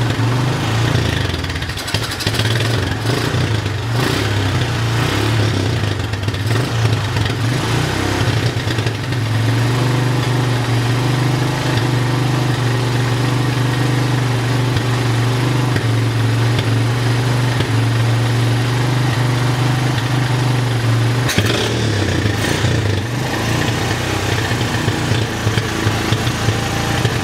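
Honda ATV engine idling steadily after its carburettor jets have been cleaned, while the fuel-air mixture screw is being set; the pitch shifts briefly a little after three-quarters of the way through.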